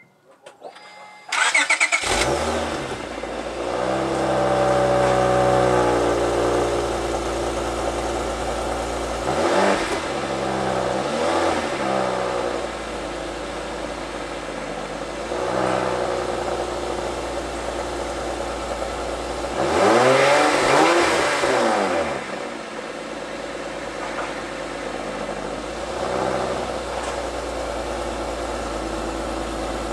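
2004 Acura TL's 3.2-litre V6 through an RV6 J-pipe and Comptech exhaust, starting up about a second and a half in, then idling cold with a few light revs, the biggest about twenty seconds in. A subtle tone that gains more growl as the revs rise.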